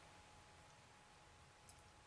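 Near silence: room tone with a faint steady hum and one small click near the end.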